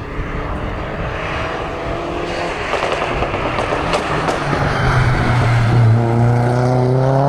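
Hillclimb race car engine at full throttle, growing louder as the car approaches; near the end its pitch climbs steadily as it accelerates.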